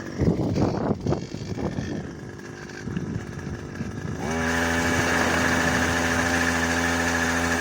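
Engine of a Stella Plus SP1000E almond harvester (a motorised pole shaker with a 3.1 hp engine) revs up about four seconds in. It then runs steadily at full speed, shaking the almond branch. Before that there is a lower, uneven rattling sound.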